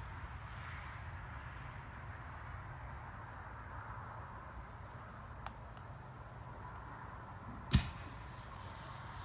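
Fireworks: a soft whooshing hiss that fades over several seconds, a faint pop about halfway, then one sharp bang near the end.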